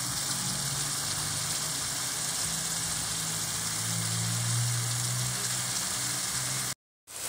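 Shredded young papaya sizzling and simmering in a wok as its added water cooks down, a steady hiss over a steady low hum. The sound cuts out briefly near the end.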